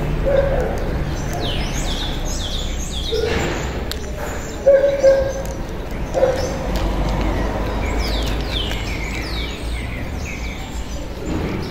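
Small birds chirping in quick clusters of short, downward-sweeping notes, over a steady low background rumble. Two sharp knocks sound close together about five seconds in.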